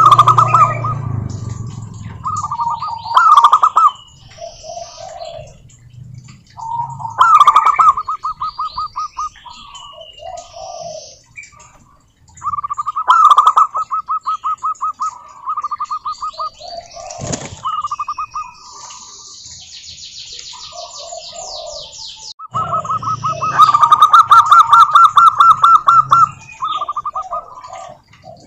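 Zebra doves (perkutut) singing: bouts of fast, stuttering cooing notes, repeated several times with short pauses between, while smaller birds chirp higher above them.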